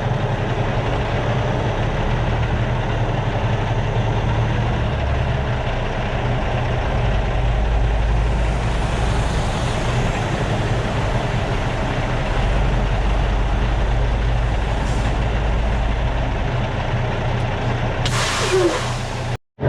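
Semi truck's diesel engine running steadily, with a short hiss of released air about eighteen seconds in.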